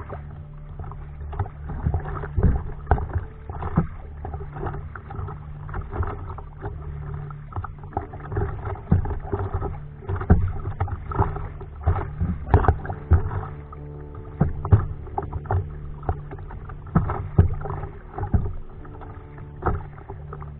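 Kayak on the sea: irregular water splashes and slaps from paddling and small waves against the hull, over a steady low hum.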